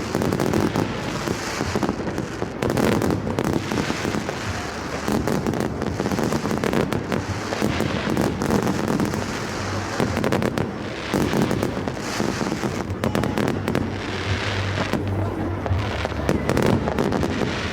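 Fireworks going off: a dense run of bangs and crackles over a low rumble.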